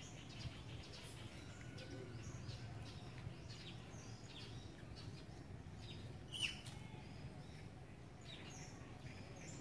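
Birds chirping and tweeting in short high calls over a faint, steady low background noise. One louder, sharp call sweeps downward about six and a half seconds in.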